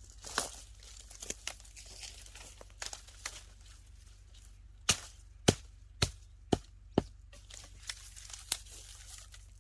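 Rustling and crinkling of dry material, then a run of five sharp knocks about two a second, a little past the middle.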